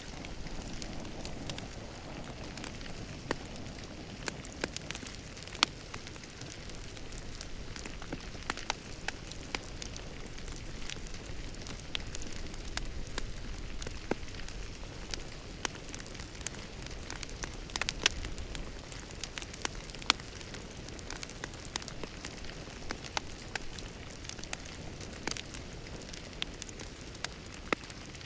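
Wood fire crackling in a fireplace: a steady soft hiss with irregular snaps and pops, a few of them sharper and louder.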